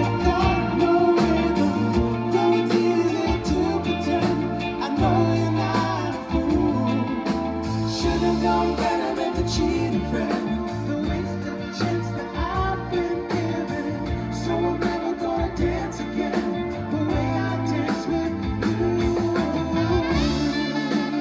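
A live rock band playing a song: electric guitar over a bass line and a steady drum beat.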